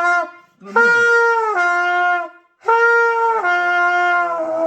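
Trumpet played with the valves open, slurring between notes with the lips alone. Two phrases, each a held note that steps down to a lower one, the practice of moving between high do and sol.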